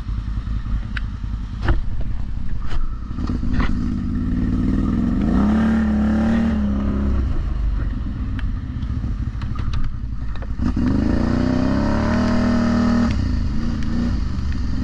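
ATV engine running, revved up twice: each time the pitch climbs and then holds for a couple of seconds before dropping back. A few sharp clicks and knocks come in the first few seconds.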